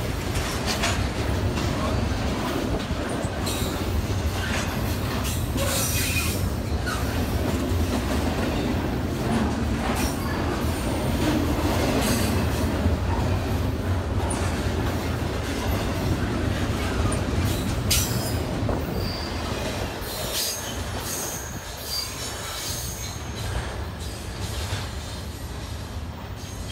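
Freight train of intermodal container and trailer cars rolling past close by: a steady rumble of wheels on rail with repeated clicks over the joints and occasional wheel squeal. The sound fades over the last few seconds as the end of the train goes by.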